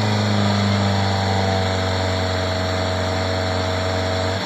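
A motor vehicle engine running steadily at a nearly even pitch, with a strong low hum. It stops abruptly just before the end.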